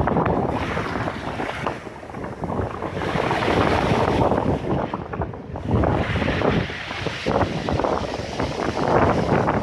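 Storm-force wind buffeting the microphone in gusts, over the rush of heavy storm surf. The noise swells and eases every few seconds.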